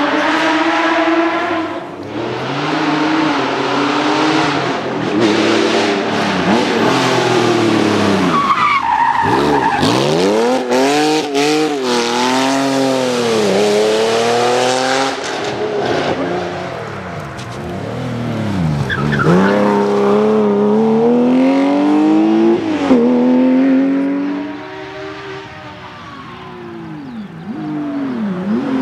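Porsche rally car's flat-six engine at full throttle, its pitch climbing again and again and dropping sharply at each gear change. It fades somewhat near the end before rising again.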